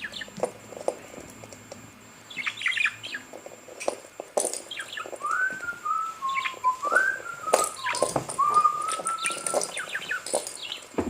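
Birds chirping and tweeting in short repeated bursts, with a wavering whistled line of a few seconds in the middle.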